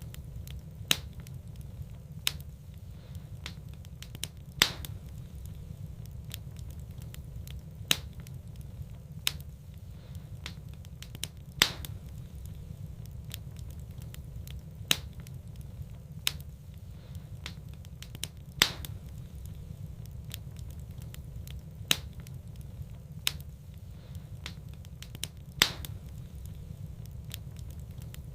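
Wood fire in a fireplace crackling: sharp pops every one to three seconds over a steady low rumble.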